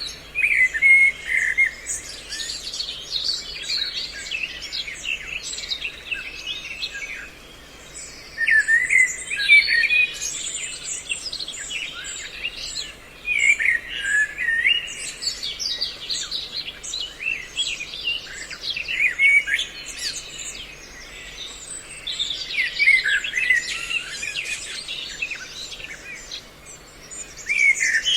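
Many songbirds chattering and whistling together in quick, overlapping chirps, in loud bunches every few seconds with quieter stretches between. This is a mixed bird-call recording of trao trảo and hoành hoạch calls, used to lure birds to traps.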